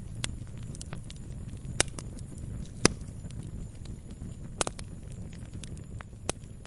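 Wood fire crackling: irregular snaps and pops over a low steady rumble, the sharpest pop about three seconds in.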